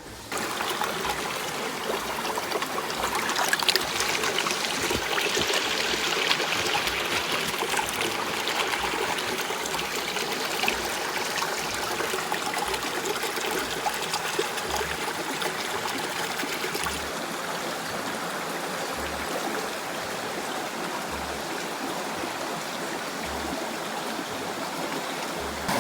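River water flowing steadily over stones, an even rushing sound that starts abruptly just after the start.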